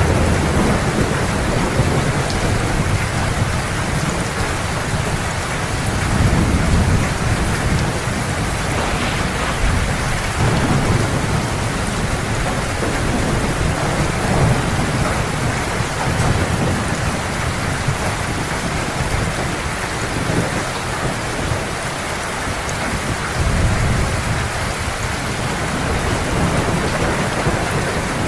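Heavy steady rain falling, with low thunder rumbles swelling and fading several times.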